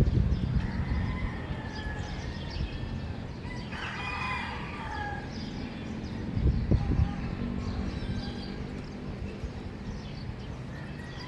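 A rooster crowing once, about four seconds in, with scattered small-bird chirps and a low rumbling noise that swells briefly near the start and again around the middle.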